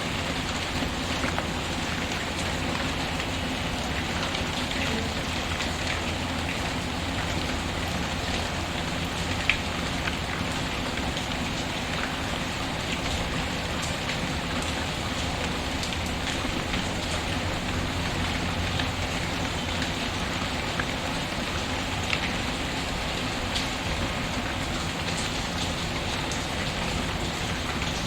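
Steady rain pattering on a surface, with scattered small pops and crackles from a fireplace fire, one slightly sharper pop about a third of the way in.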